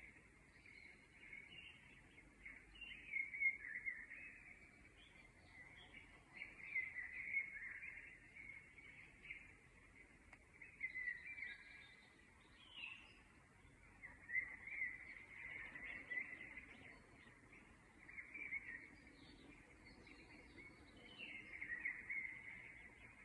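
Birds chirping and singing in short, faint phrases every second or two, over a low steady background hiss.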